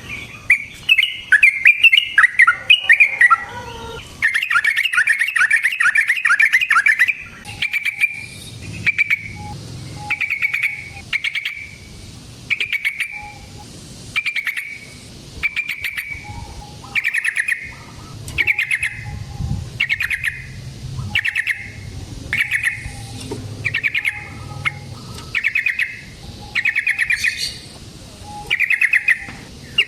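Yellow-vented bulbul (trucukan) singing: a fast, continuous run of bubbling notes for the first several seconds, then short bubbly phrases repeated about once a second.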